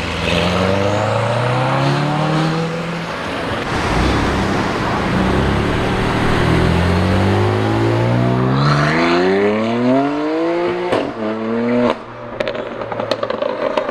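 Sports car engines revving and accelerating along a street, the pitch climbing several times in a row, with a few sharp cracks near the end.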